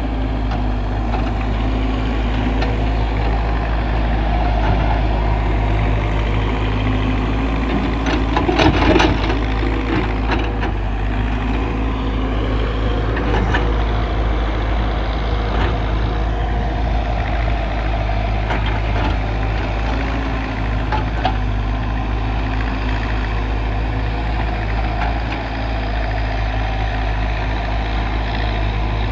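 Heavy diesel engine of earthmoving machinery running steadily, with a cluster of short knocks about eight to nine seconds in and a few fainter ones later.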